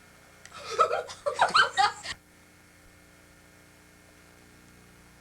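A person laughing briefly, a burst of about a second and a half, followed by a faint steady electrical hum.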